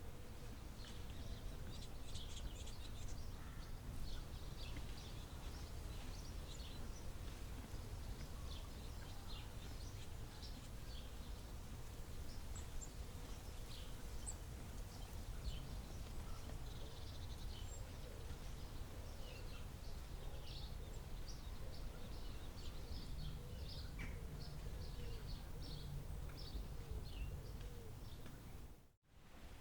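Forest birds chirping: many short, high calls from several birds overlapping, over a steady low rumble. The sound drops out briefly near the end.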